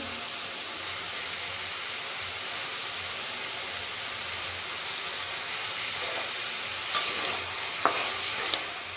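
Green beans and potato sizzling steadily in hot oil in a metal kadai. Near the end a metal spatula clacks and scrapes against the pan as the vegetables are stirred.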